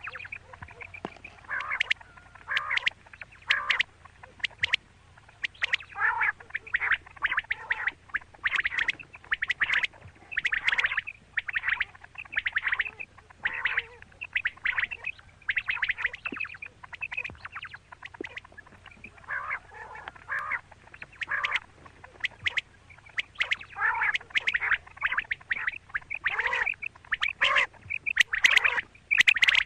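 Female quail calling: clusters of short, repeated call notes every second or two, with a brief lull about two-thirds of the way through.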